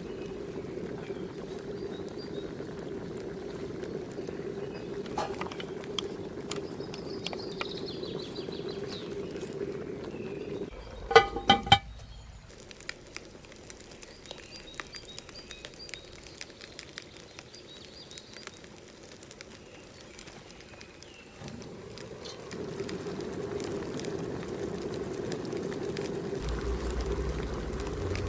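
Outdoor ambience with birds chirping over a steady low noise. About eleven seconds in comes a brief, loud clatter of three quick knocks; the steady noise then drops out for about ten seconds before returning.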